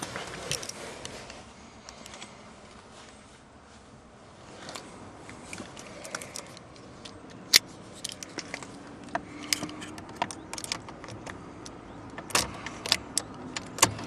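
A bunch of keys jangling and being handled, with scattered sharp clicks, the loudest a single click about halfway through and a cluster near the end.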